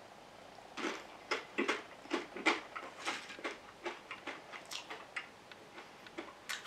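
Crunchy Doritos tortilla chips being chewed: irregular sharp crunches, a few a second, starting about a second in.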